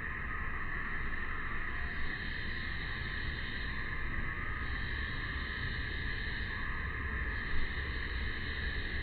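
Steady, unbroken chorus of summer cicadas, a high buzzing drone, over a low rumble of wind or handling noise on the phone microphone.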